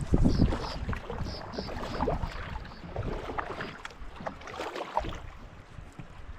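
Canoe being paddled on a river: scattered paddle splashes and knocks over a low wind rumble on the microphone, with a few short high chirps in the first three seconds.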